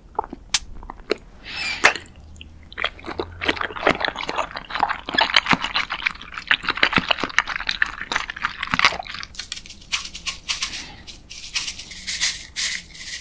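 Mouth chewing a soft, flat gelatin jelly strip: quick wet clicks and smacks, densest through the middle, thinning to a lighter, higher crackle near the end.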